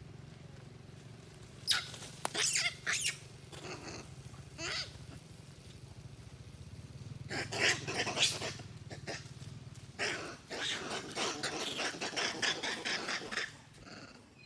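Monkeys giving harsh, noisy calls in several short clusters, the longest a rapid run of calls lasting about three and a half seconds near the end, over a steady low hum.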